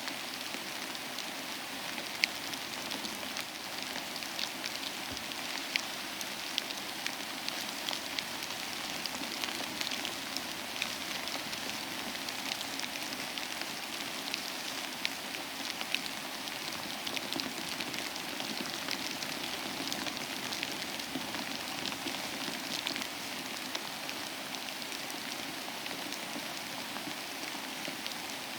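Steady rain falling on a hard surface, a constant hiss with many close, distinct drop ticks and now and then a louder single drop.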